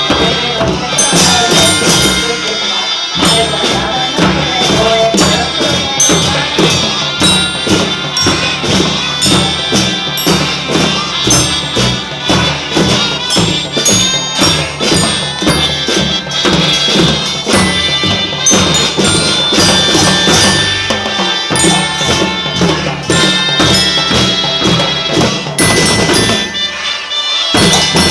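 Kindergarten children's marching band playing a march: drums, tambourines and other percussion beating a steady rhythm under a melody, with a brief dip in the bass about three seconds in and again near the end.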